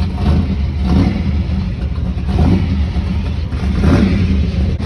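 Classic car's engine running with a deep low rumble, revved in short blips a few times.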